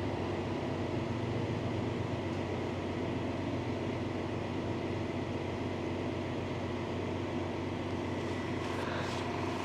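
Tow truck engine idling steadily, an even low hum that does not change.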